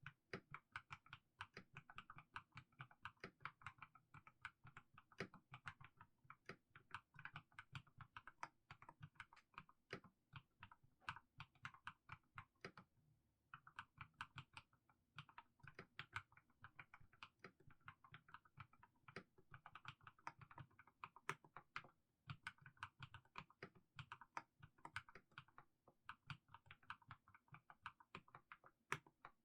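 Mechanical keyboard fitted with fully lubricated Haimu Sea Salt switches being typed on at a slow, even pace: a steady stream of keystrokes with two short pauses, one about halfway through and one about three quarters of the way in.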